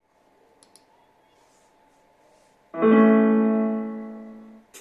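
A piano chord struck about three seconds in, ringing and slowly fading, then damped shortly before the end, with a faint click just after.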